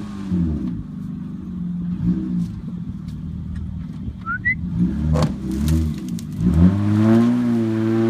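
Honda Accord's engine revving in several surges under load as the car strains to drag a fallen tree tied behind it. The longest and loudest rev begins about six and a half seconds in.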